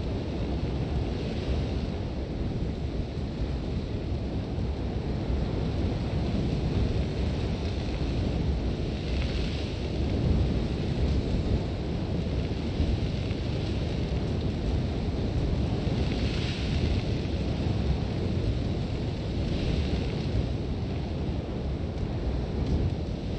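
Sandstorm wind blowing hard with a steady low rumble, and a brief hiss of blown sand rising and fading several times.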